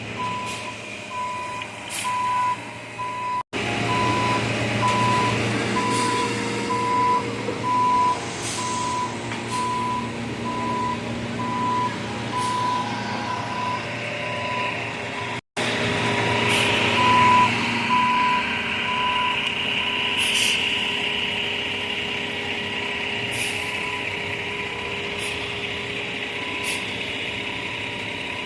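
A truck's reversing alarm beeping steadily, about one beep a second, over the truck's running engine, with sharp knocks now and then.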